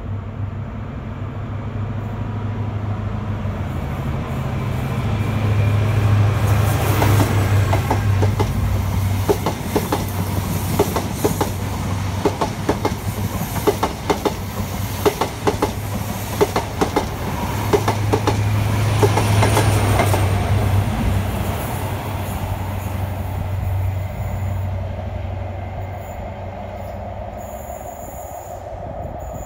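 A GWR High Speed Train (InterCity 125) running along the platform. The diesel hum of a Class 43 power car swells a few seconds in, then the coaches' wheels clatter over the rail joints in a quick run of clicks. About two-thirds of the way through the hum swells again as the power car at the other end goes by.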